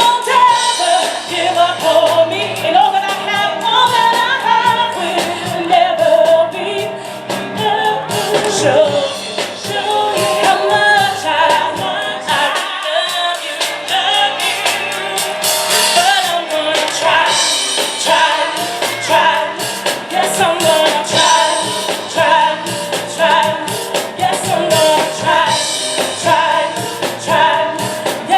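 Live gospel music: women's voices singing together over piano and drums.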